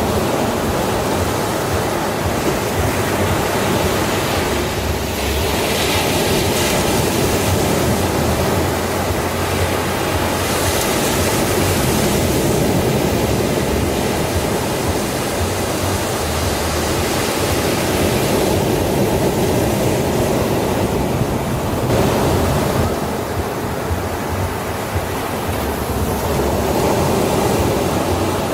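Sea waves breaking and washing on a beach: a continuous rushing surf that swells and eases as the waves come in.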